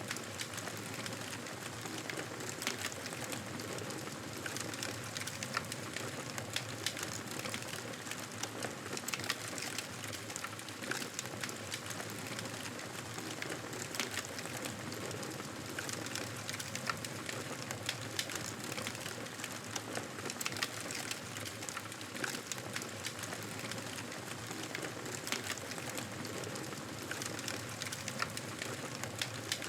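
Campfire burning: a steady hiss with frequent small crackles and pops scattered throughout.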